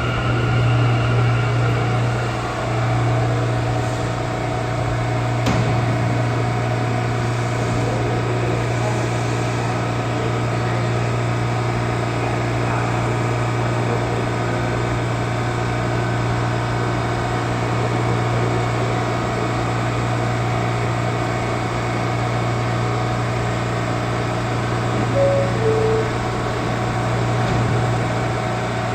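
A subway train standing at the platform, its air-conditioning and onboard equipment giving a steady, loud hum. Near the end comes a short two-note falling chime, the door-closing chime.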